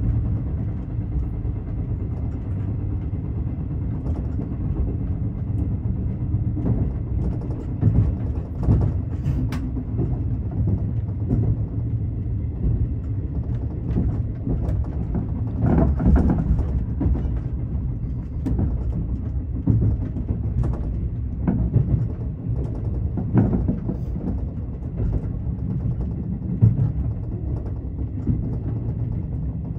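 Inside a 381-series electric express train running: a steady low rumble of the wheels on the track, with a few louder knocks and clatters here and there.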